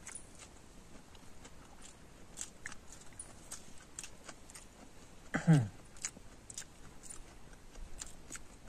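A person chewing and biting food close to the microphone: faint, irregular crunchy clicks. About five and a half seconds in, a voice gives one brief low sound that falls in pitch.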